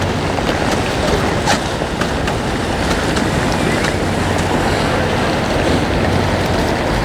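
A Venetian water bus under way: its engine runs with a steady low hum under the rush of water and wind buffeting the microphone.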